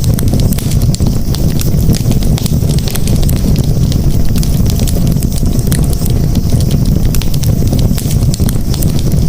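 Campfire burning, with a steady low rumble under many quick crackles and pops from the burning wood.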